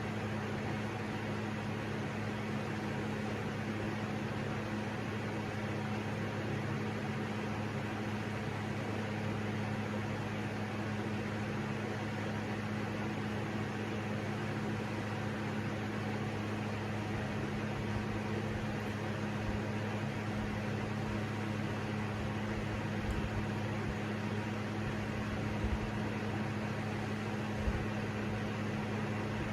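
Electric fans running steadily: a whoosh of moving air over a low, even motor hum, with a couple of faint knocks near the end. The SMC Laguna ceiling fan on high speed is nearly silent, so most of the running noise comes from a portable fan.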